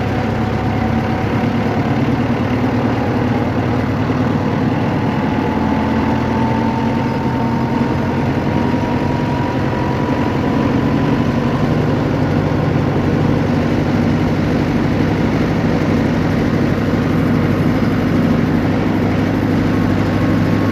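Steady vehicle engine and road noise, a continuous low hum with a faint tone that slowly rises in pitch over the first several seconds.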